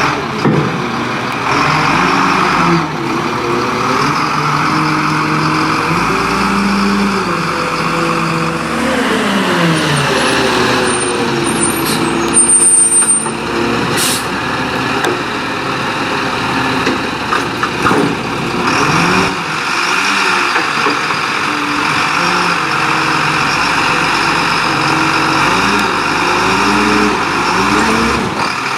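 Diesel engine of a Leach Curbtender rear-loader garbage truck, its pitch rising and falling several times as it revs and settles. Air brakes hiss now and then, and a brief high squeal comes about midway.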